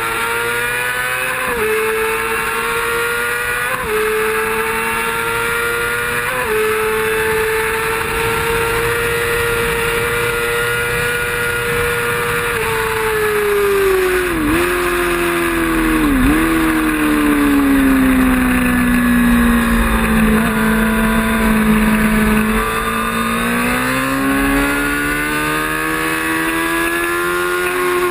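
Race motorcycle engine at full racing pace. It revs up through three quick gear changes, then the revs fall steadily with two brief dips as it slows, hold low for a couple of seconds, and climb again as it accelerates near the end.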